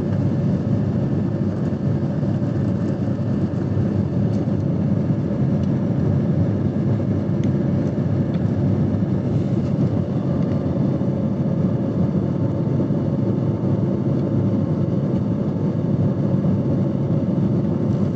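Aeroplane engines during takeoff: a loud, steady, unchanging rumble with a faint steady hum above it.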